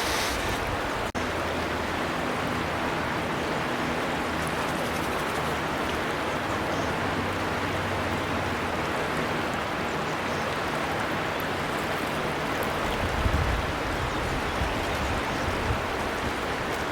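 River water flowing in a steady rush, with a brief dropout about a second in. Low rumbling joins in during the last few seconds.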